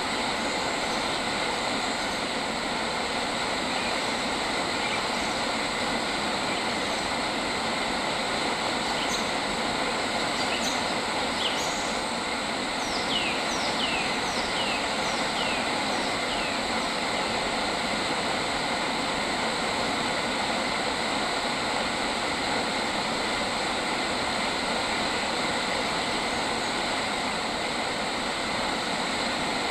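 Steady, loud rushing outdoor ambience with constant high ringing tones running through it. About 13 seconds in, a bird gives a quick series of six short falling whistles, roughly two a second.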